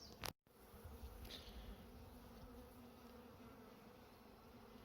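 Faint steady hum of honey bees working an open hive. A short click and a split-second dropout come about a third of a second in.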